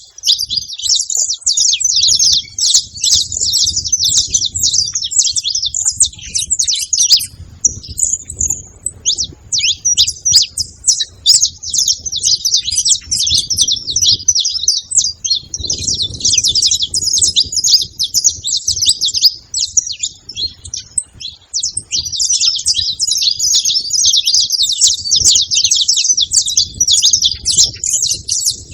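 Several saffron finches singing and chirping together: a dense, unbroken run of rapid high notes that thins out briefly about seven seconds in.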